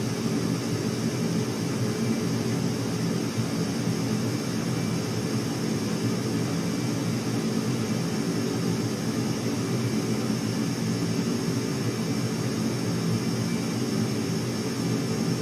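Steady drone of an aircraft engine, holding an even level and pitch with no rise or fall.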